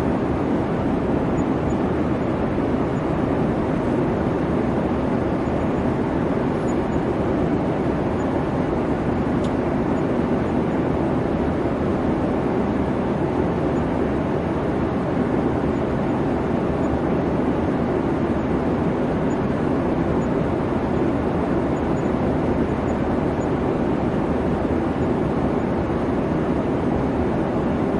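Steady airliner cabin noise: an even, unchanging rumble with hiss, as heard from inside the passenger cabin.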